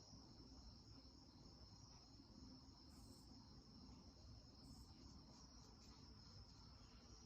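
Near silence: faint room tone with a steady high-pitched whine, and two faint brief scratches of a paintbrush on watercolor paper, about three seconds in and again near five seconds.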